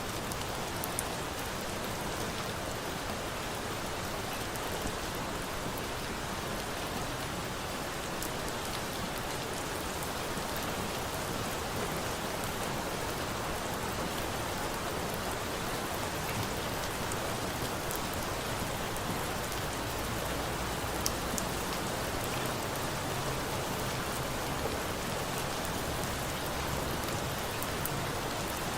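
Steady rain mixed with a wood fire burning: an even hiss of rain with a few sharp crackles now and then.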